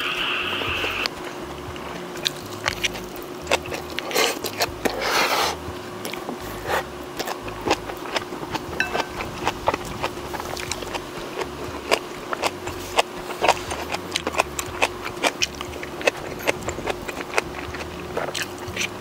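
Close-miked chewing and mouth sounds of a person eating: many small wet clicks and smacks, with two longer, louder noisy bursts about four and five seconds in.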